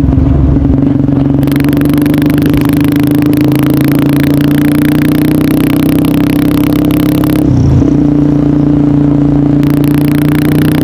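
Honda CBR150R's single-cylinder engine running through an aftermarket DST exhaust under steady throttle, its note creeping slowly higher. The note dips briefly about seven and a half seconds in, then holds again. A rushing hiss lies over it for much of the time.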